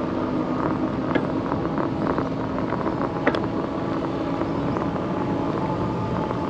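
Electric bike riding along a trail: steady wind and tyre noise with a low steady hum, and scattered small clicks, one sharper click a little past three seconds in.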